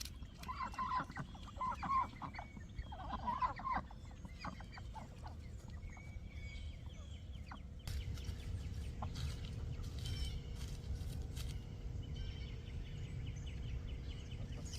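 Domestic fowl clucking, a run of short calls in the first four seconds. About eight seconds in, a steady low rumble takes over, like wind on the microphone.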